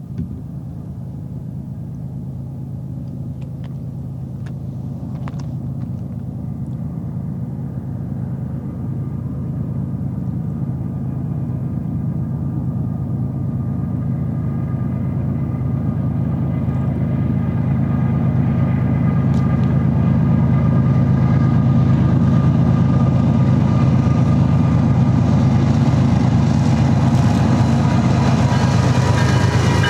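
Diesel locomotives of an approaching BNSF freight train: a steady low engine rumble that grows gradually louder, with rail and wheel noise rising near the end.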